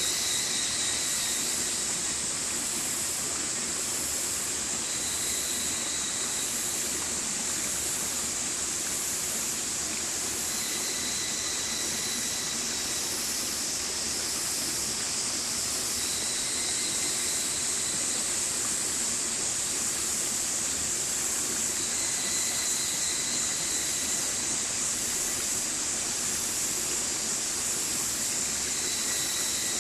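Stream water flowing steadily, a bright, even rushing. A faint high note, with a fainter lower one, recurs every five or six seconds.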